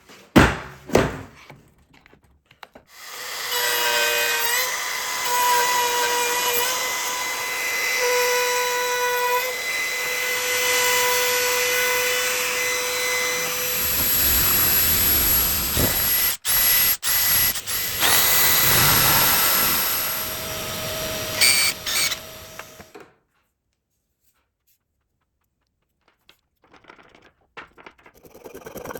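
An electric power tool runs and cuts wood for about twenty seconds, with a steady motor whine over the cutting noise, then stops abruptly. A few knocks come before it, and softer scraping on wood follows after a short silence.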